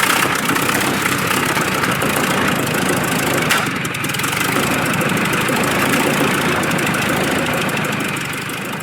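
The Fiat S76's 28.4-litre four-cylinder engine running, loud and steady, with a single sharp crack about three and a half seconds in.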